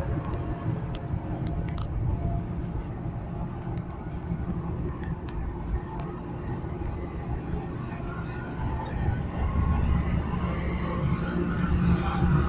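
Steady low rumble on board a ferry coming in to dock, growing louder over the last few seconds, with a few faint clicks.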